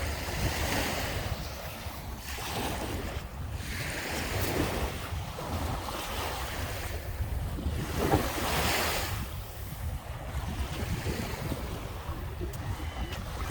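Lake Michigan waves breaking and washing up on the beach, swelling and fading every few seconds. Wind rumbles on the microphone.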